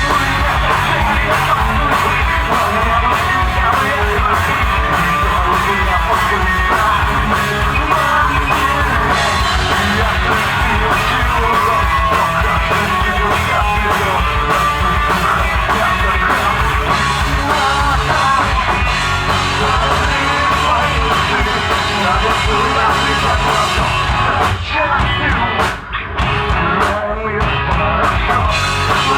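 Alternative rock band playing live, with sung and shouted vocals over guitars and drums. The music drops out briefly near the end, then comes back in.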